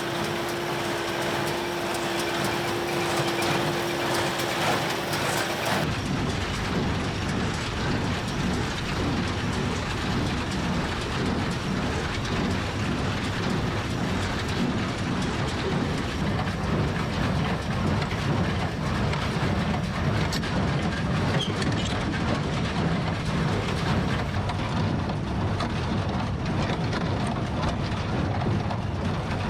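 Tractor and New Holland Super Hayliner 78 wire-tie square baler running in the field, a steady clattering mechanical noise. For about the first six seconds a steady hum sits over a hiss; after that the sound turns deeper and fuller and stays steady.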